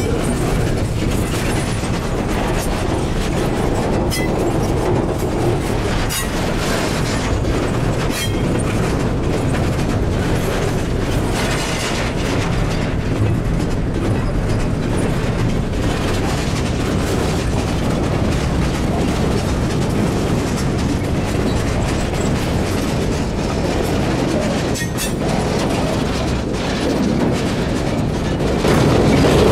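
Freight train rolling past: the wheels of double-stack container well cars and then center-beam flatcars run along the rails with a steady noise and a few sharp clacks. It gets louder near the end as the flatcars pass.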